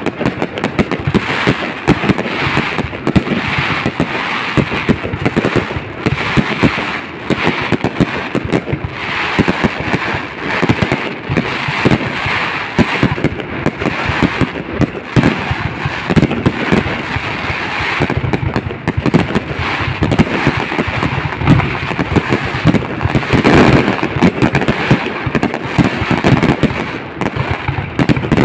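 A fireworks display going off without a break: dense, rapid bangs and crackling from aerial shells.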